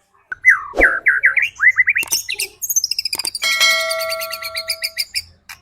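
White-rumped shama (murai batu) song used as a lure: a fast run of falling whistled notes, then varied rapid notes and a long held note with several tones together in the middle of the phrase.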